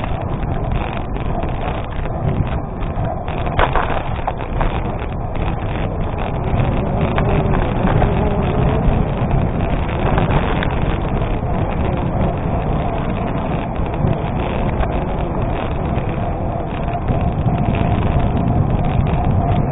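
Gravel bike rolling on an unpaved gravel road: tyres crunching over the stones with many small clicks and rattles, under steady wind rumble on the microphone.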